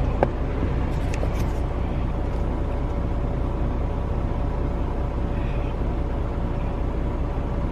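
Steady low rumble of a semi truck's engine, with a few light clicks in the first second or so.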